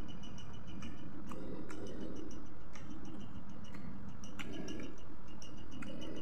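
Someone chewing fried chicken: soft, muffled mouth sounds about once a second, with scattered sharp crunches and clicks. A fast, high, even ticking runs in the background.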